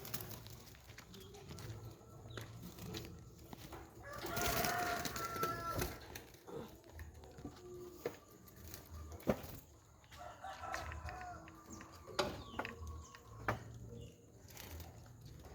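Birds calling among caged doves and other yard birds: short scattered calls, a louder, longer call about four seconds in, and a few sharp knocks.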